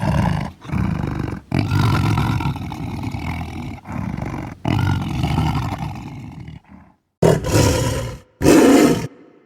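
Tiger roaring: a run of roars with brief breaks that fades out after about six and a half seconds, then, after a moment of dead silence, two short, louder roars that cut off abruptly.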